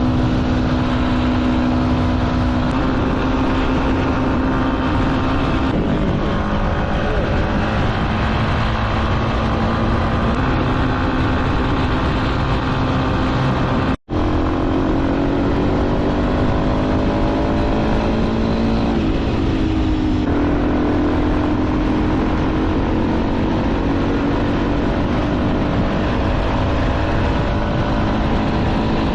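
Motorcycle engine running while riding, its pitch slowly rising and falling with the throttle, over steady road and wind noise. The sound cuts out for an instant about halfway through.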